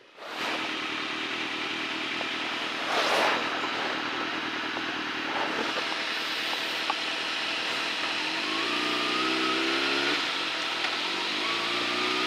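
Riding on a Kawasaki ZX-6R sport bike: steady wind and road noise on a helmet camera, with a louder gust about three seconds in. Near the end the inline-four engine rises in pitch twice as the bike accelerates.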